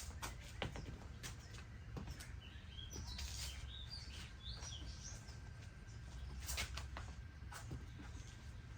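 Small birds chirping repeatedly in short, high calls, with a few light knocks from handling and a steady low rumble underneath.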